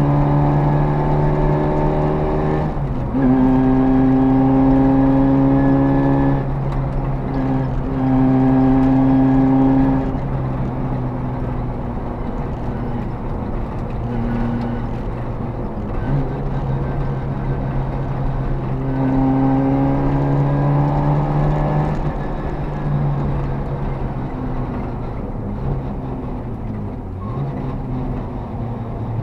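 Škoda 130's rear-mounted four-cylinder engine heard from inside the cabin as the car is driven, the engine note steady under load with short breaks in the first few seconds. About ten seconds in it goes quieter and rougher, then pulls strongly again for a few seconds around twenty seconds in.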